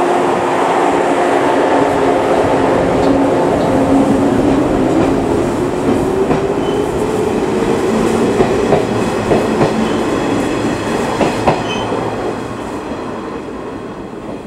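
Shinano Railway 115-series electric train accelerating away from a station: the traction motor hum rises in pitch, then the wheels clack over rail joints as the cars pass. The sound fades near the end as the last car leaves.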